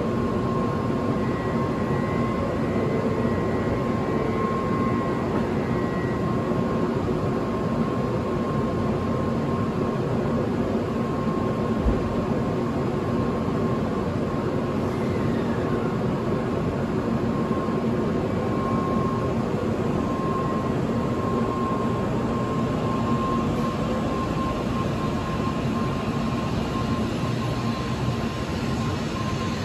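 An N700A Shinkansen train stands at the platform with a steady hum and a constant tone from its onboard equipment, and there is a single thump about twelve seconds in. Its doors close, and near the end it begins to pull away.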